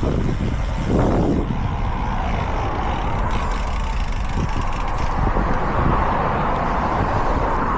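Road traffic: a motor vehicle going past on the road, its tyre noise swelling over the last few seconds, over a steady low rumble.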